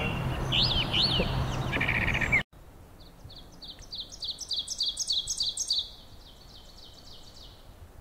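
A brown thrasher singing short varied phrases, cut off abruptly about two and a half seconds in. Then an ovenbird sings its song: a fast series of repeated two-note phrases that builds in loudness and then fades.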